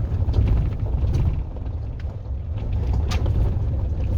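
Tesla Cybertruck moving over rough off-road ground: a steady low rumble with a few creaks and knocks, the sharpest about three seconds in.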